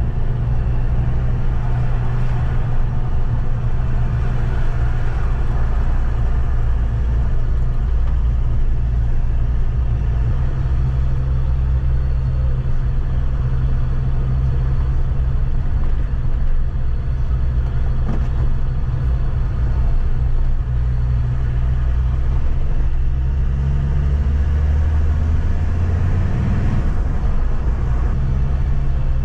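Troller 4x4's engine pulling steadily on a mountain climb, with a steady low rumble of engine and road noise. About three-quarters of the way through the engine note rises, then drops back.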